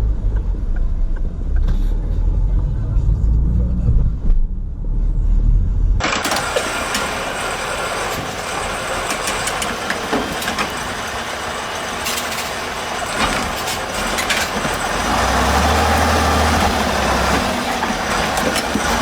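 Vehicle sound from dashcam clips. It opens with a heavy low engine rumble, which gives way about six seconds in, at a sudden cut, to a steady hiss of road and wind noise. A low engine hum joins near the end.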